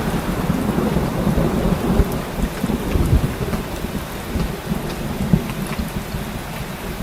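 Heavy rain falling steadily, with a deep, uneven rumble of thunder underneath throughout.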